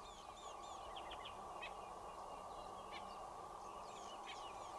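Several small birds chirping and twittering, many short high notes scattered throughout, over a steady low background hiss.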